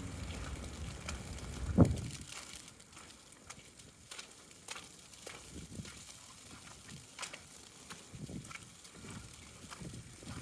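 A vehicle engine's hum fading out at the start, a single loud thump about two seconds in, then footsteps in wet snow with scattered sharp ticks.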